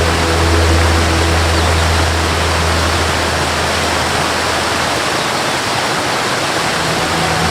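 Waterfall rushing in a steady, even wash of water noise. A low, held music drone fades out in the first couple of seconds, and a soft melodic tone comes back in near the end.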